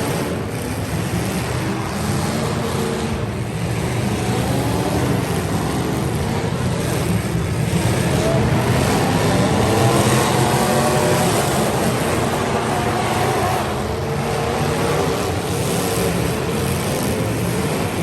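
Several demolition derby cars' engines running and revving, their pitch rising and falling over and over.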